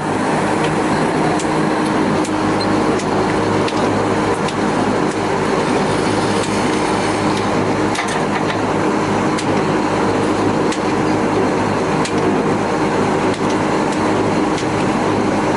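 A fishing boat's engine running steadily at a constant speed, with scattered sharp clicks and knocks over it.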